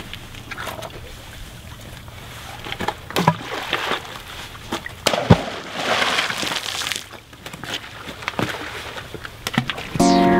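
Stones being thrown: sharp knocks of stone on stone and rock at irregular intervals, with water sloshing and splashing. Music comes in at the very end.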